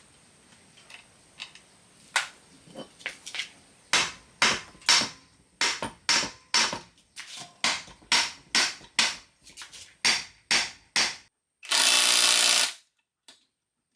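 A hammer striking metal in a run of sharp blows, about two a second once it gets going, then a brief burst of about a second from a power tool near the end that stops abruptly.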